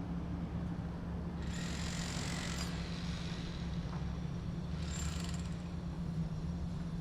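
Bicycle riding noise heard through a handlebar-mounted camera: a steady low rumble of the bike on the road. Two short spells of high-pitched hissing rattle come from the bike, about a second and a half in and again about five seconds in.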